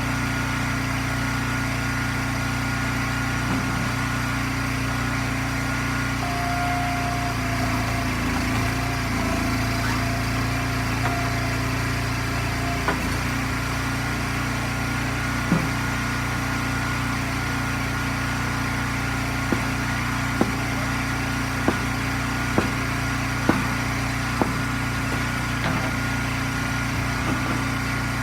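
Gas engine of an Eastonmade hydraulic log splitter running steadily, with a series of sharp knocks in the second half, several about a second apart.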